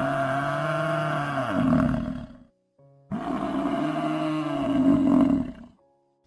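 A large animal's long, deep call, sounded twice with a short silence between; each call lasts about two and a half seconds and drops in pitch as it ends.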